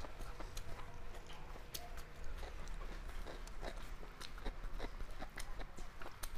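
Close-up eating sounds: chewing with irregular wet mouth clicks and smacks, a few a second, along with fingers working rice on a steel plate.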